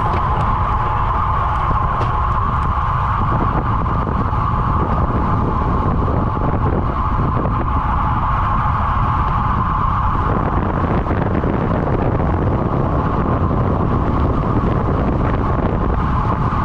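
Wind buffeting the microphone of a camera carried on a moving road bike, a steady loud rumble with a constant hum running through it that weakens about ten seconds in.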